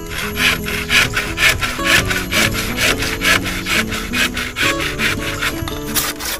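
Hand saw cutting through wood in quick, even strokes, about four a second, stopping abruptly near the end. Background guitar music plays under it.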